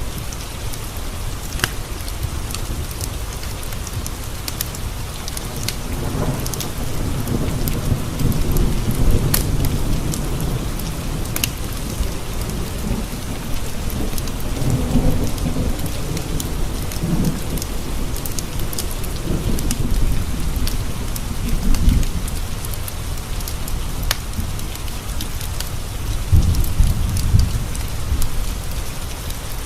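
Steady heavy rain with several long, low rolls of thunder rumbling and fading through the stretch, and scattered sharp ticks on top.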